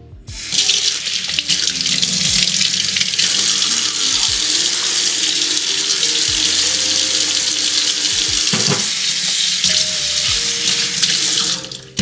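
Kitchen tap running water into the sink as a steady hiss, turned on just after the start and shut off near the end, over soft background music.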